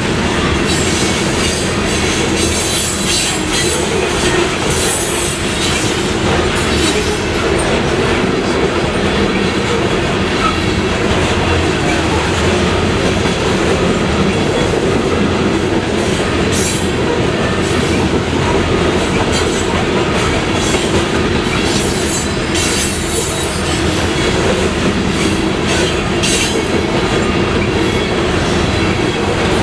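Freight train cars rolling past, a steady rumble of steel wheels on rail with clicking over the rail joints and brief high wheel squeals now and then.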